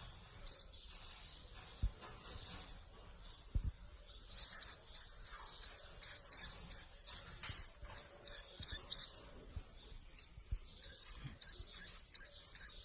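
Munia nestlings calling with rapid, repeated high chirps, about three a second, starting about four seconds in, pausing briefly, then starting again near the end. Two soft low knocks come before the calling.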